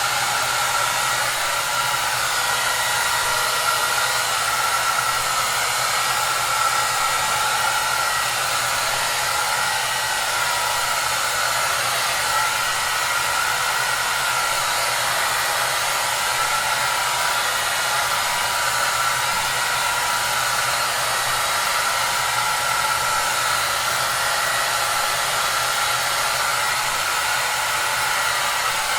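Hair dryer running steadily: an even rush of air with a steady whine over a low motor hum.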